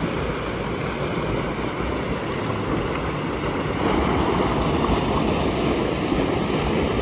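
A river rushing over rocks, a steady full noise of flowing water that gets a little louder about four seconds in.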